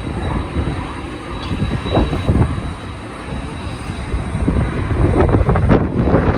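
Strong gusty wind buffeting the microphone, a heavy uneven rumble that swells and eases, with a faint steady high whine running through it.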